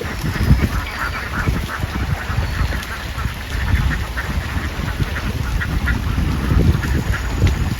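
A large flock of ducks quacking, many calls overlapping in a dense, continuous clamour over a low rumble.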